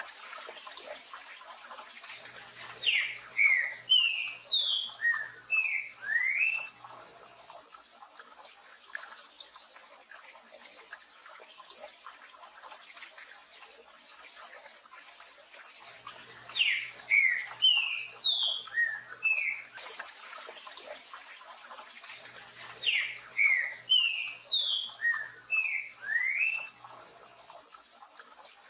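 Green-winged saltator (trinca-ferro) singing its 'tio João pedro boi' song three times, each phrase a run of about seven loud, quick sliding whistled notes. A steady hiss of rain runs beneath it.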